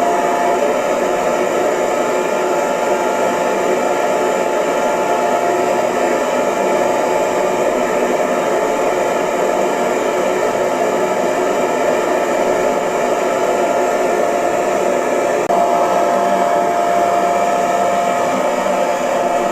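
Electric hair dryer running steadily: an even rush of blown air with a steady motor tone. The tone fades shortly after the start and comes back about three-quarters of the way through.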